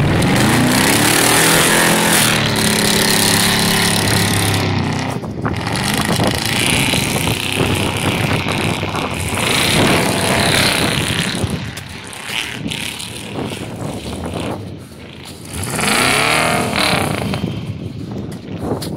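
Straight-piped 6.0-litre V8 of a 1999 Chevy Silverado revving hard as the truck takes off, its pitch rising steeply at the start and climbing again near the end. A loud rushing hiss runs under it.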